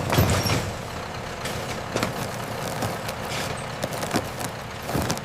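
Steady industrial machinery noise with scattered clicks and knocks, a louder thump at the start and another near the end.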